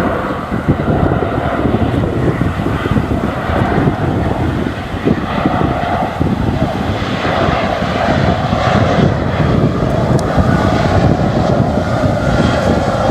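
Aircraft engine running loud and steady: a deep rumble with a drone in the middle range that does not let up.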